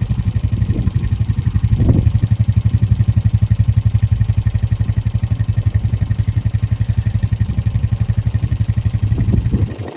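Quad bike engine running close by with a steady, rapid, even beat.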